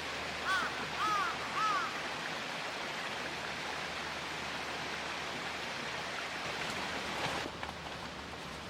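A crow cawing three times in quick succession over a steady rushing outdoor background.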